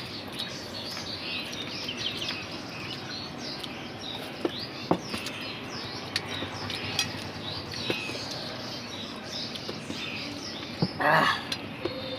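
Small birds chirping continuously in the background, with a few sharp clicks scattered through and a brief louder noisy sound near the end.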